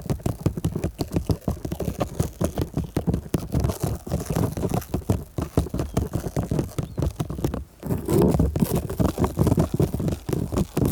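Fingers rubbing and scratching over stickers stuck on a microphone, heard as a close, dense run of rapid rubbing strokes. There is a brief pause about two-thirds of the way through.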